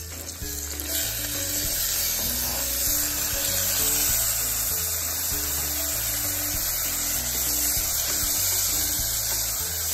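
Chopped tomatoes sizzling steadily in a little hot oil in an aluminium pressure-cooker pot as they are stirred with a wooden spatula, over background music with a repeating low bass line.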